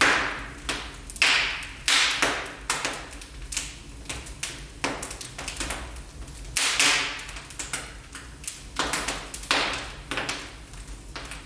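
Wood fire crackling in a fireplace: irregular sharp snaps and pops, a handful of them louder, over a faint hiss of burning.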